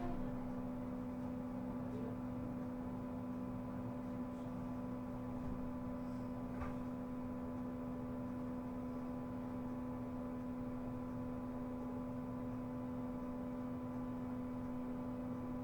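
Steady electrical hum inside an Isuzu Erga EV electric bus, several constant tones at fixed pitch over low rumble, with a couple of faint knocks from the cabin.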